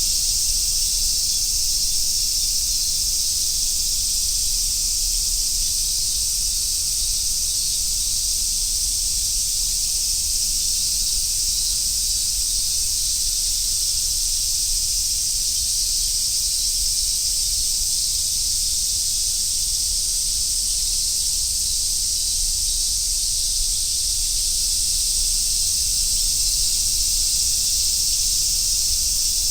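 Chorus of Japanese summer cicadas, such as large brown cicadas and robust cicadas, shrilling together in an unbroken high, sizzling drone that holds steady throughout.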